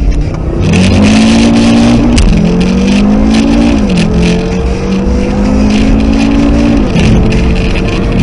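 2018 Audi RS3's turbocharged 2.5-litre five-cylinder engine at full throttle, heard from inside the cabin as the car launches and pulls hard up through the gears. The pitch climbs, drops sharply at each of three quick upshifts, about two, four and seven seconds in, and climbs again after each one.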